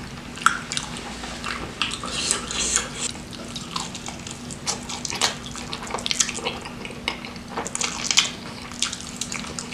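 Close-miked mouth sounds of someone eating: irregular wet smacks, clicks and chewing, many short sounds a second apart or less.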